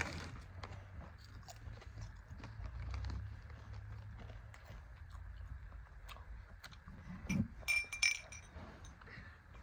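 Small crunches and clicks of snacks being eaten and handled, over a low rumble, with a few short sharp clinks about eight seconds in.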